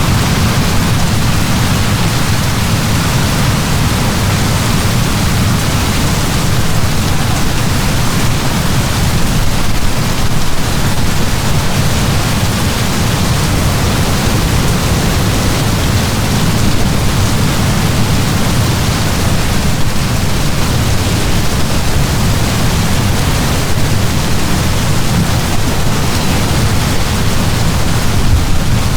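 Heavy rain falling in a steady downpour, an even unbroken hiss with a strong low rumble underneath.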